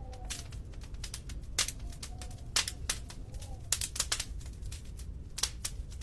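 Wood fire crackling in a fireplace: irregular sharp pops and snaps, a few much louder than the rest, over a steady low rumble of the flames, with a faint wavering tone now and then.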